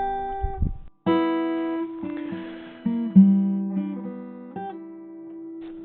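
Acoustic guitar music: a chord, then a run of plucked notes that each ring and fade away.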